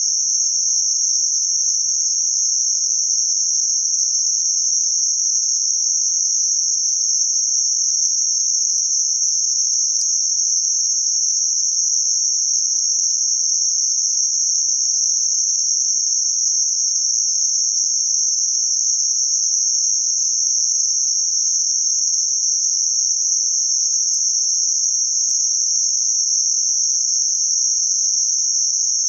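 Electronically generated band-limited noise centred around 6051 Hz: a steady, even high-pitched hiss that never changes.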